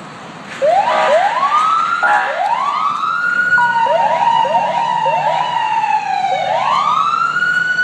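Emergency vehicle siren on LAFD Rescue 86 starting up about half a second in. It sweeps up in a few rising wails, breaks into a run of quick short yelps in the middle, then goes back to a long wail that slowly falls.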